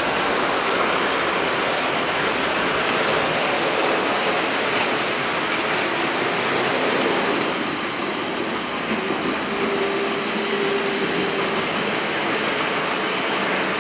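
Model train running on a layout track: the steady whir of its small electric motor and wheel noise, with a faint hum that comes and goes.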